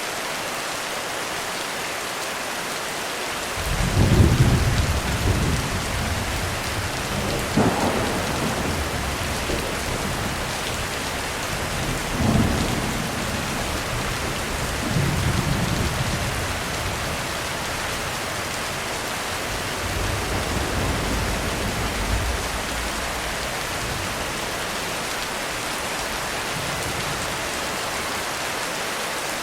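Heavy rain falling steadily on a roof, with thunder that starts rolling a few seconds in, swells several times and fades out near the end.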